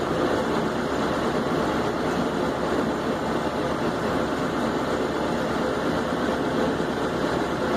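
Propane forge burner running with a steady roar, with no hammer blows.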